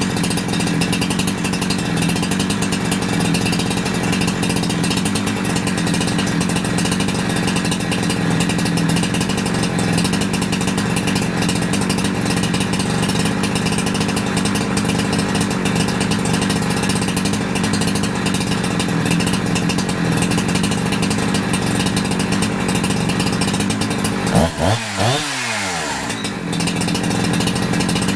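Holzfforma G372XP two-stroke chainsaw engine running steadily at idle while its new carburetor is tuned. About 24 seconds in it gets a quick blip of the throttle: the pitch climbs sharply, then falls back to idle.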